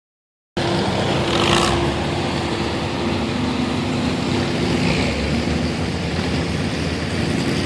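Truck engine running steadily, starting about half a second in, with a brief louder rush of noise a second or so later.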